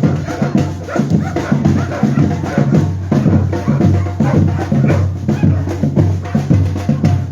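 Batucada percussion ensemble playing a dense, steady beat, with deep drums carrying the rhythm under lighter percussion.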